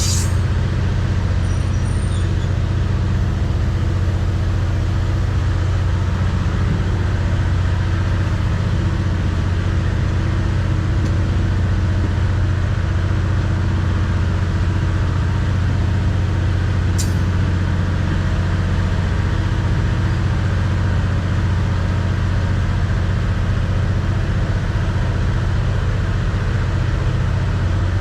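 A vehicle engine running with a steady low drone that holds even throughout.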